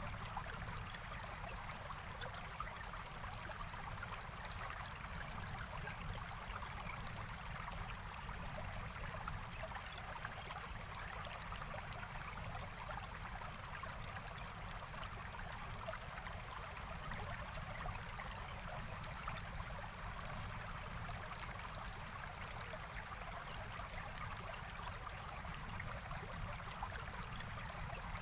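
Forest stream flowing steadily, an even rushing and trickling of water.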